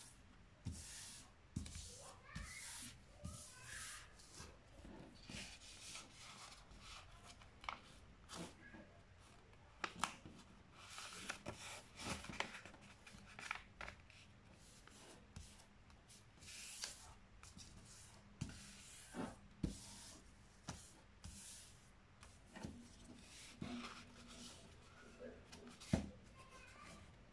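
A sheet of paper being folded and creased by hand: faint, irregular rustling and crinkling, broken by sharp creasing clicks, the loudest near the end.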